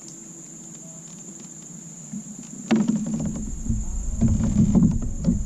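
A steady high-pitched drone of crickets and other insects. About halfway through, loud low rumbling with knocks and clatter breaks in and continues to the end.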